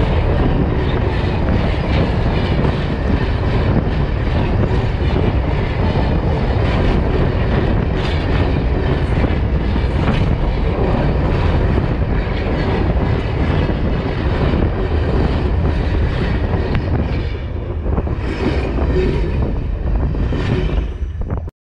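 Iron ore train wagons rolling directly over the track, steel wheels on rails making a loud, steady rumble with scattered clanks. It eases off a little near the end, then cuts off suddenly.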